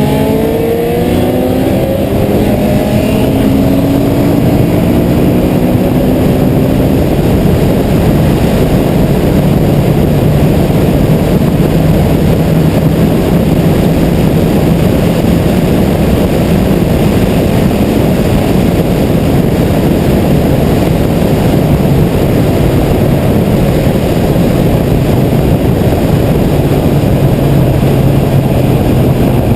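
Car engine pulling hard, its pitch rising for the first several seconds, then holding a steady drone at highway speed under loud rushing wind and road noise.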